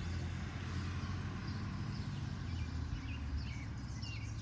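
Outdoor garden ambience: small birds chirping in short, scattered high calls over a steady low rumble.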